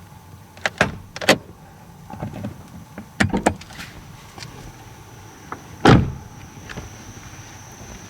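Abnormal noise from a 17-series Toyota Crown: a series of short creaks and knocks, clustered around one second and three and a half seconds in, with the loudest near six seconds in. The owner likens the noise to a bullfrog call.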